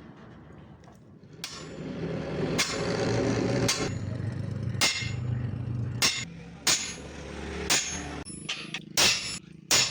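Hammer blows on steel, a sharp metallic strike about once a second over a steady rumble. Near the end the rumble drops away and the strikes come faster, about two a second.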